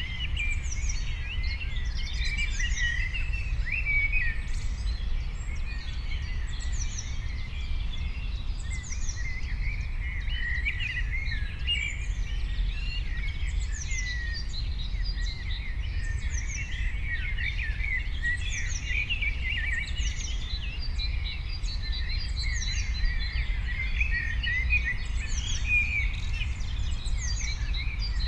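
Several birds chirping and singing at once, many overlapping short notes with a high call sweeping downward about once a second, over a steady low rumble.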